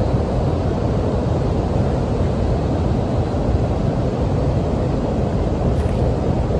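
Steady low rushing noise with no separate sounds standing out.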